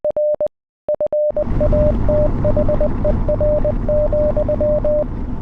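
Morse code as a single beeping tone, keyed in short and long pieces like a radio operator's signal. Radio static comes in under it about a second and a half in, and the code carries on over the hiss.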